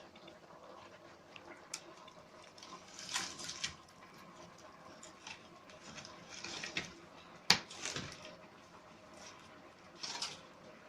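Kitchen work with water: short splashes and sloshes at irregular intervals, with a sharp knock of a utensil about seven and a half seconds in.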